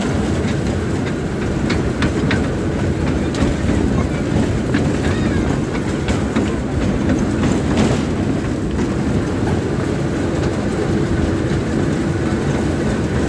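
Train running along the track: a steady loud rumble with scattered sharp clicks and knocks from the wheels on the rails.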